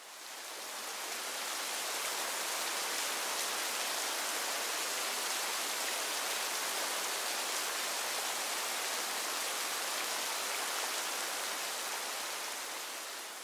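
Steady rain falling, an even hiss that fades in over the first couple of seconds and fades out near the end.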